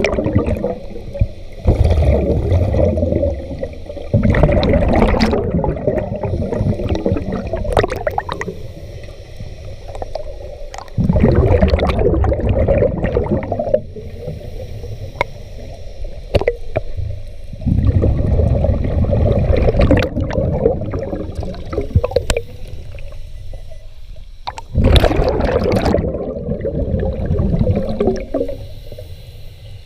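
Scuba diver breathing through a regulator: a bubbling, gurgling rush of exhaled air every six or seven seconds, with quieter inhalations between.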